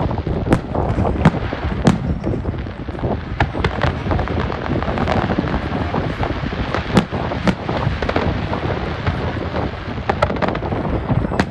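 Fireworks going off: a continuous rumble of distant bursts with many sharp cracks and bangs at irregular intervals.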